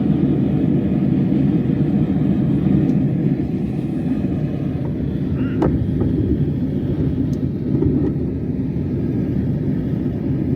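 Steady low rumble of a forge running, used to heat steel for heat treating a knife blade, with a faint short tick a little past halfway.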